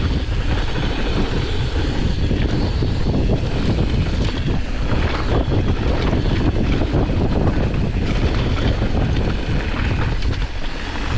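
Wind rushing over the microphone and a mountain bike rattling over a rough dirt trail at speed, with many small knocks from the bumps.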